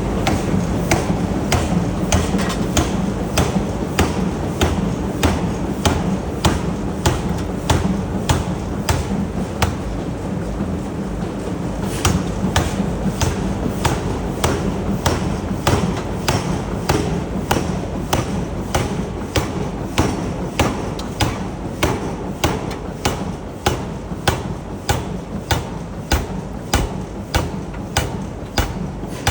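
Forging air hammer striking hot steel in a steady rhythm, about two blows a second, over a continuous low machinery hum.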